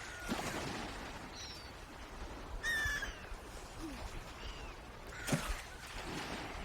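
Birds calling: a series of short, high calls with sliding pitch, and a louder, fuller call about three seconds in.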